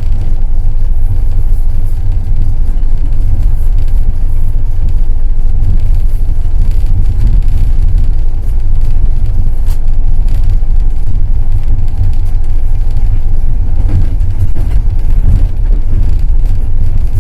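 Passenger train running on the rails: a loud, steady low rumble of the wheels and running gear, with a few faint clicks.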